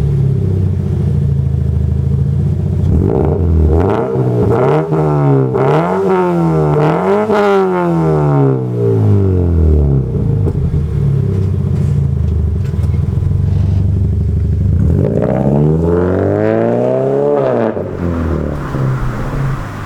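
A Toyota 86's 2.0-litre flat-four engine runs through a silencer-less straight-through rear muffler section. It idles, is blipped up and down several times in quick succession, settles back to idle, then is revved once more for a longer sweep up and back down.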